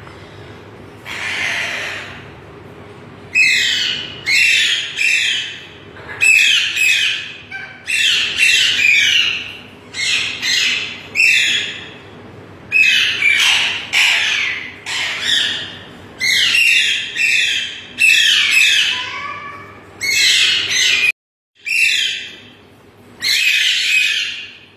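Alexandrine parakeets squawking: loud, harsh calls in quick groups of two or three, repeating over and over.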